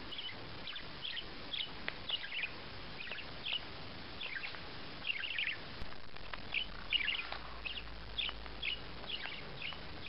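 Parrot chirping in a steady series of short high chirps, about two a second.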